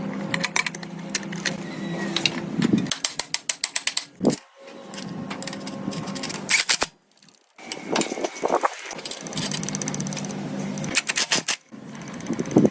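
Workshop tool sounds on motorcycle parts: runs of rapid mechanical clicking over a steady low hum, broken by a few short, nearly silent gaps.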